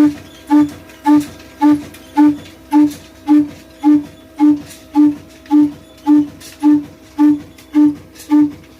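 Old slow-speed stationary diesel engine running steadily, its exhaust giving an even, ringing beat of a little under two firings a second.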